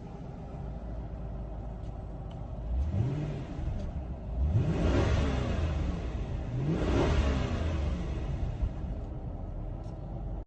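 Jaguar XJ8 3.5's V8 engine idling, then blipped three times: a short light blip about three seconds in, followed by two stronger revs that rise and fall back to idle.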